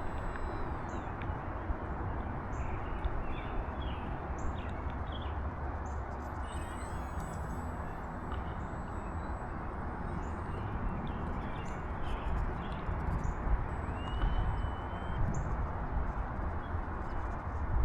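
Gusty wind buffeting the microphone as a steady low rumble that swells near the end, with faint, scattered bird chirps over it.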